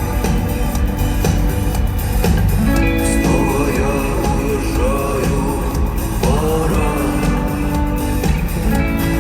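Live rock band playing loudly through an arena PA, with electric guitars, bass and drums and a singing voice over them.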